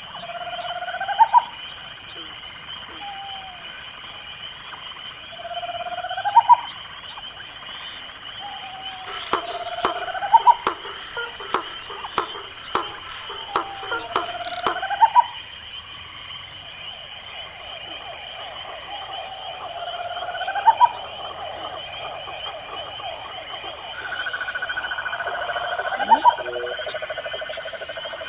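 Night chorus of crickets trilling in a steady, shrill high drone, with frogs trilling in buzzy stretches underneath. A short upward-sweeping call repeats about every five seconds over the chorus.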